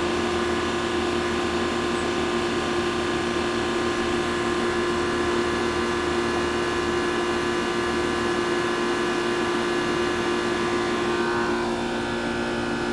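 2-ton Comfortmaker central air conditioner condensing unit running under a high heat load: its Copeland reciprocating compressor and condenser fan give a steady hum with a constant tone. Near the end the sound dips slightly and its higher tones shift.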